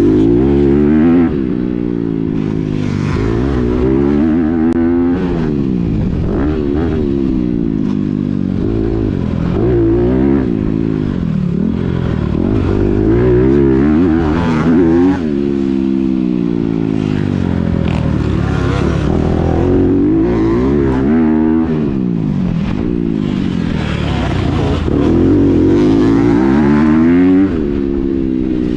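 A Honda CRF250R dirt bike's single-cylinder four-stroke engine, fitted with a Yoshimura RS-9T titanium exhaust, revving hard under throttle. The pitch climbs and falls back again and again as the rider accelerates, shifts and backs off.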